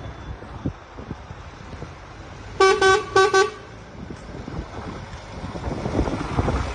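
Vehicle horn sounding three short toots in quick succession, the first the longest, over wind buffeting the microphone.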